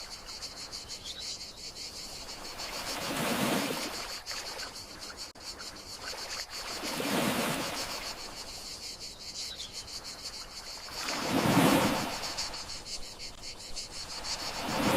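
Gentle sea waves washing ashore four times, about four seconds apart, under a steady high chirring of crickets.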